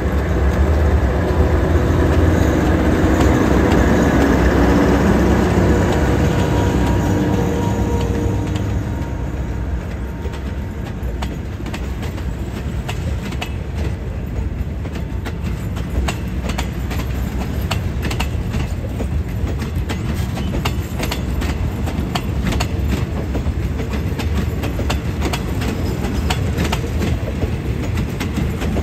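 Passenger train pulling out of the station. An Alsthom diesel-electric locomotive's engine runs loud as it passes for the first several seconds, then the carriages roll by with wheels clacking over rail joints, the clacks coming more often near the end.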